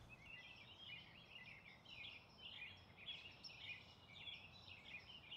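Faint birdsong: a continuous twittering of quick, high chirps.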